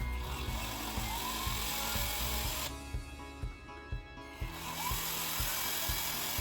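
Cordless electric screwdriver or drill running in two spells of about two and a half seconds each, its pitch sweeping up and back down, backing screws out of a metal-gear RC car differential case. Background music with a steady beat plays throughout.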